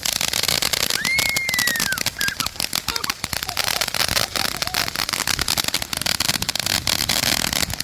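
Fireworks going off in a rapid, continuous crackle of small pops, like a string of firecrackers. A brief high tone rises and falls about a second in.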